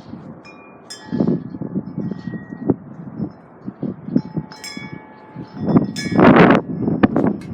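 Wind chimes ringing irregularly in gusty wind, several metal tones struck at intervals and fading out. Wind buffets the microphone with a low rumble, the strongest gust about six seconds in.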